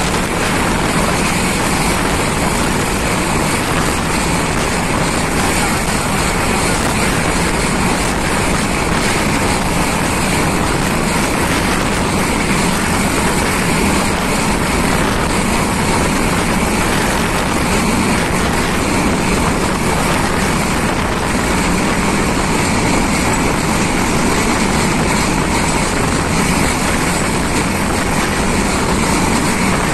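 Steady rushing noise of a moving passenger train heard at an open coach window, wind and running noise from the wheels on the track blending into one even sound.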